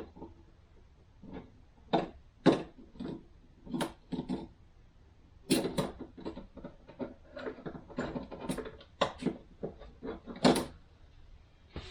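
Transmission clutch discs and steel plates being handled and stacked on a workbench: a string of irregular clacks and knocks.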